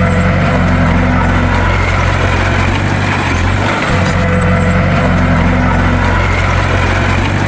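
Bulldozer's heavy diesel engine running steadily, with a low note that dips briefly and picks up again about every four seconds.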